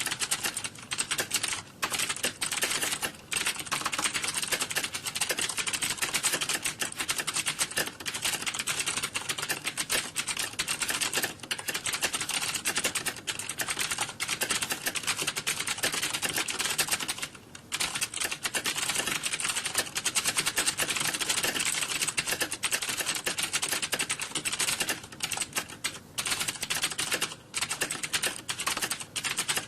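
Fast computer keyboard typing: a dense, continuous stream of key clicks, with a brief pause about 17 seconds in.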